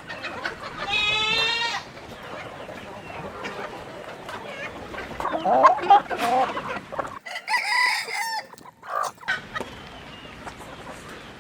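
Chickens clucking and calling, with a rooster crowing.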